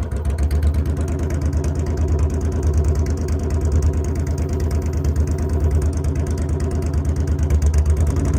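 Motorcycle engine running steadily at low revs, with an even pulsing beat and no change in pitch.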